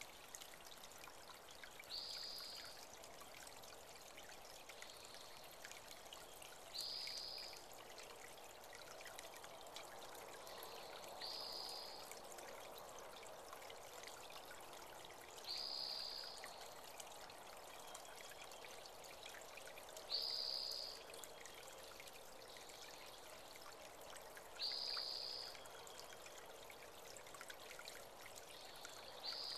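Spring-fed creek trickling steadily, with a bird repeating a short, high call about every four and a half seconds.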